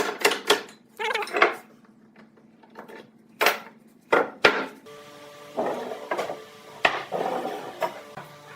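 Several separate wooden knocks and clattering taps, as of wood pieces and tools being handled. About five seconds in, a steady hum begins under a few more knocks.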